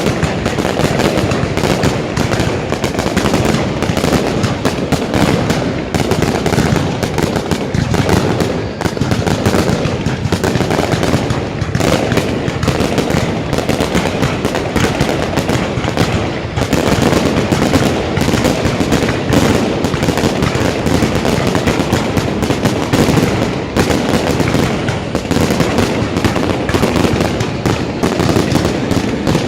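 Fireworks display going off nonstop: a dense, rapid run of bangs and crackling with no pause.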